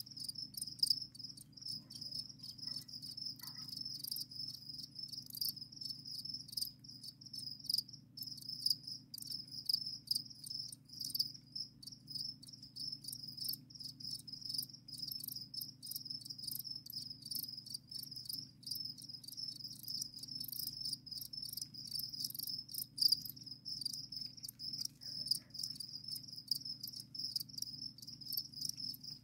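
Many crickets chirping at once: a dense, unbroken high-pitched chirring from overlapping calls, over a low steady hum.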